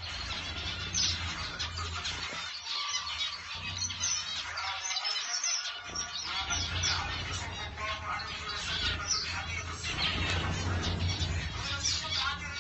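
A group of zebra finches calling, with many short overlapping chirps. A low steady hum runs underneath.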